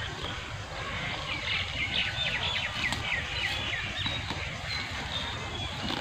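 A small bird chirping in a quick run of short high notes, starting about a second and a half in and coming back a few times later, over a steady low rumble of outdoor noise.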